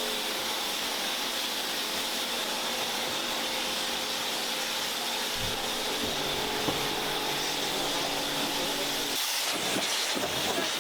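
Pressure washer running, a steady motor hum under the hiss of its water spray.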